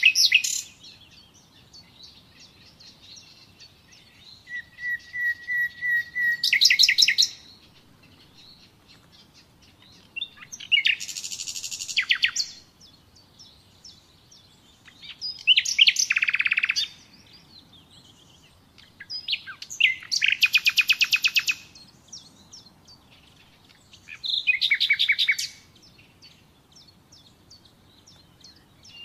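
Common nightingale singing in separate phrases a few seconds apart. One phrase is a run of clear repeated whistled notes that grow louder, and the others are fast repeated trills and rattles, with short quiet pauses between phrases.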